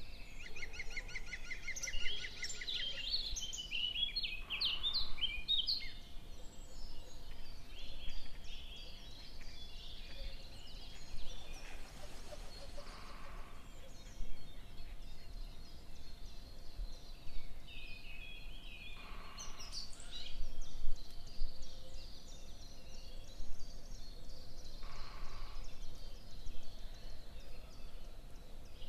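Small birds chirping and singing, with a rapid trill in the first two seconds and short high calls scattered throughout.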